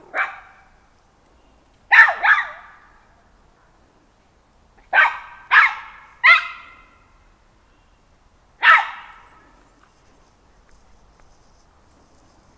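A dog barking in short bursts: one bark, then two, then three in quick succession, then a last single bark, with pauses between.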